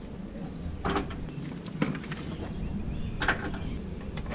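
A few sharp knocks and clatters from tools and engine parts being handled during work on a car engine, over a steady low hum.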